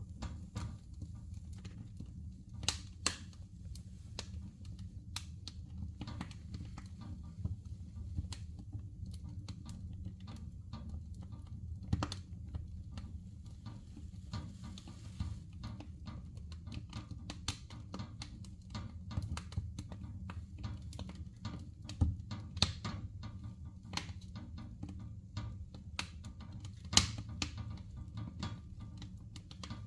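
Fire burning in a fireplace: irregular crackles and pops over a steady low rumble, with a few louder pops scattered through.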